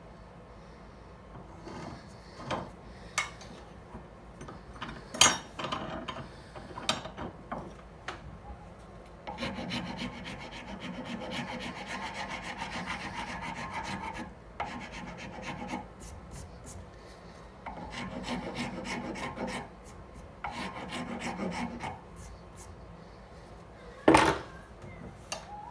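Hand file rasping back and forth on a knife handle in long runs of strokes, shaping it after rough grinding, with a few light knocks before the filing and one sharp knock near the end.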